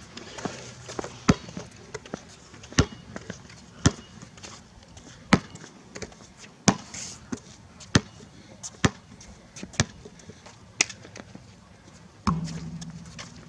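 A basketball bouncing on a court: about ten sharp, separate bounces, roughly one a second.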